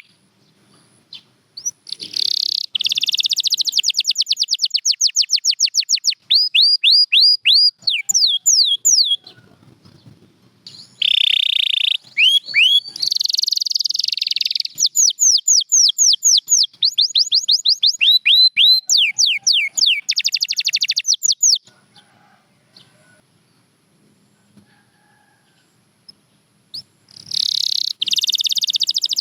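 Domestic canary singing: rapid runs of the same down-slurred whistled note repeated many times, and dense buzzy rolls, in phrases broken by short pauses. A longer lull of several seconds comes in the last third.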